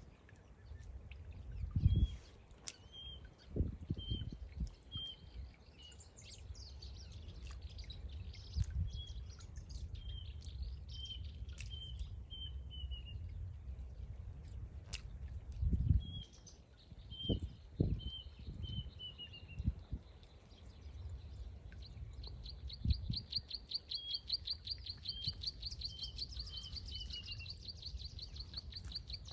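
A bird calling in repeated series of short, high chirps, each series ending in a few quicker notes that fall in pitch. From about two-thirds of the way in, a rapid high trill runs alongside them. Scattered low rumbles and thuds, loudest about two seconds in and around the middle.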